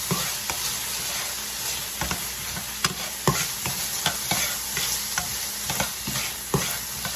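Onions, yellow pepper and tomato paste sizzling in hot oil in a frying pan while being stirred, the utensil knocking and scraping against the pan at irregular moments.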